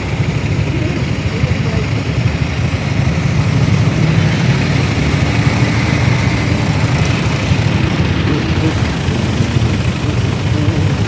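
Motorcycle taxi's engine running, with a steady low rumble of road and traffic noise, heard from the back of the moving bike.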